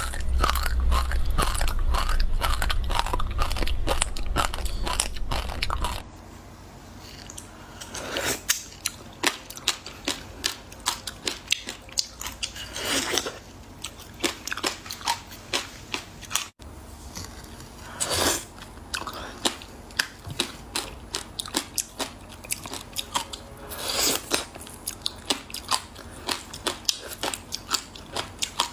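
Frozen passion fruit ice being bitten and chewed close to the microphone: crunching and crackling, dense and loud for the first six seconds, then separate bites about once a second with crackly chewing between them.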